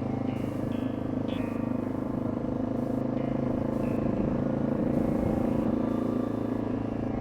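Honda XR650L's single-cylinder four-stroke engine running steadily while the motorcycle is ridden.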